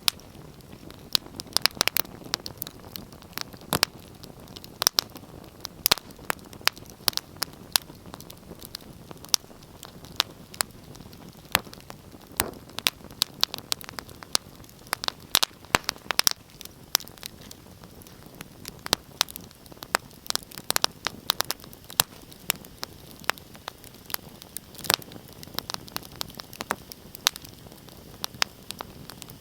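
Wood fire in a fireplace crackling: irregular sharp pops and snaps, several a second, over a soft steady hiss of the flames.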